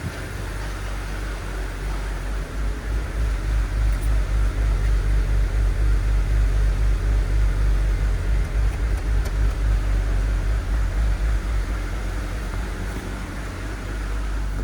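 2008 BMW 528xi's 3.0-litre inline-six engine running, with a steady low pulsing; it grows louder about two seconds in, holds for several seconds, then eases back near the end.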